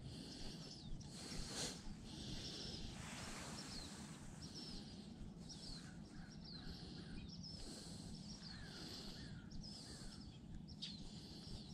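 Small birds chirping, many short rising and falling calls repeating over and over, faint, over a steady low background rumble.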